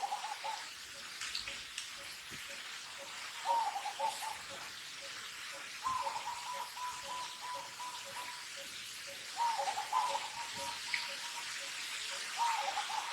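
Baby macaque crying with repeated pitched coo calls, about five of them, the middle one held for a couple of seconds. A faint regular ticking of about two to three pulses a second and a hiss run underneath.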